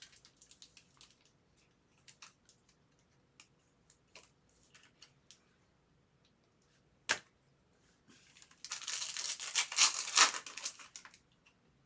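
Trading cards being handled: light clicks and taps as cards are shuffled and set down, a sharp snap about 7 seconds in, then a couple of seconds of crackly tearing as a foil card pack is torn open.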